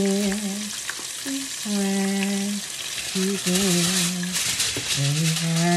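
Vegan chicken nuggets deep-frying in hot oil, a steady sizzle, while a man hums a tune over it in long held notes.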